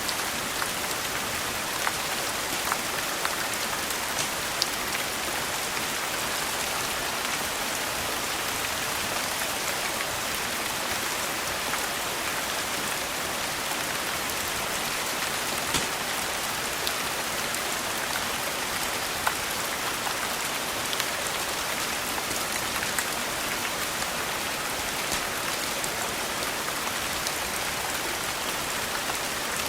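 Steady rain falling, an even dense hiss, with scattered sharp clicks and pops here and there.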